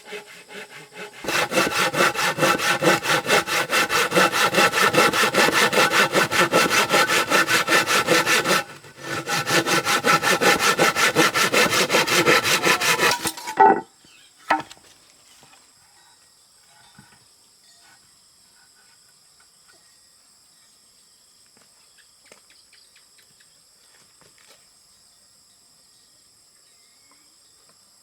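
A hand saw cutting wood in quick, even back-and-forth strokes, with a short break about a third of the way in; it stops about halfway through, followed by a couple of knocks. After that only a faint, steady high-pitched drone remains.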